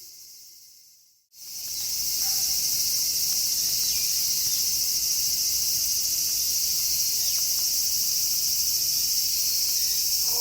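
A low call fades out, then after a brief gap a steady, high-pitched chorus of night insects sets in and runs on evenly.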